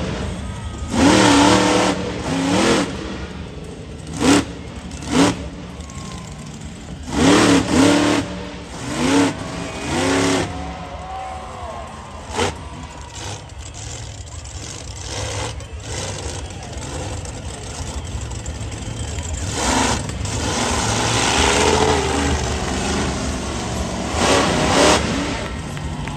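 Monster truck engine revving hard in repeated bursts, its pitch sweeping up and falling back between throttle blips.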